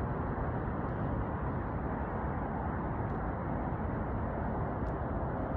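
Steady low rushing noise of wind on the microphone while riding a bicycle.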